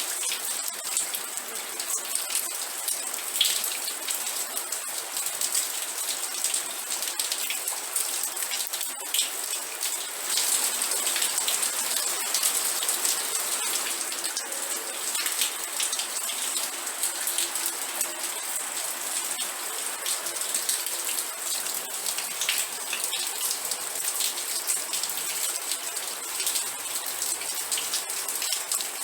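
Steady rain with a dense patter of individual raindrops hitting a surface.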